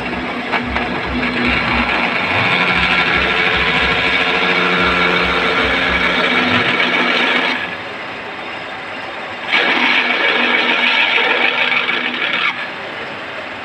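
Tractor engine running loud, raised to a higher, louder run twice: once for several seconds, then dropping back, then again briefly near the end.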